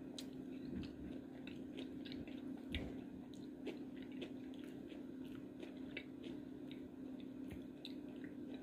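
A person chewing a chocolate peanut butter cup with potato chip bits in it, mouth closed: faint, scattered crunchy clicks over a steady low hum.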